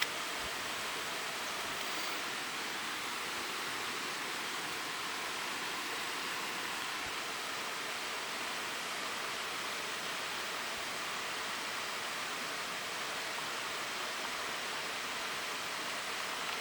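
Steady, even rushing noise like flowing water, with a single click at the very start.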